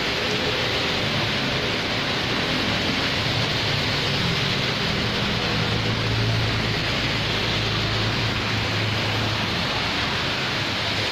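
Steady rain falling on a street and nearby surfaces, an even hiss with no breaks. A low engine hum from vehicles passing on the road swells through the middle and fades again.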